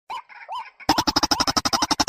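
Bird calls played as a trapping lure: a few short rising notes, then just under a second in a fast rapid-fire series of sharp notes, about a dozen a second.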